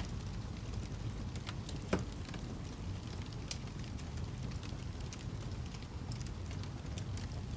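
Wood fire crackling: a steady low rumble with scattered sharp pops, the loudest about two seconds in.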